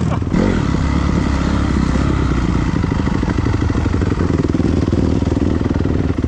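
Dirt bike engine running steadily under throttle, with a brief dip about a third of a second in.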